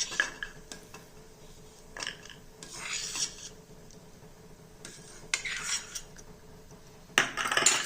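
A spatula scraping and clinking against a kadhai in three short spells as roasted nuts are scooped out into a bowl.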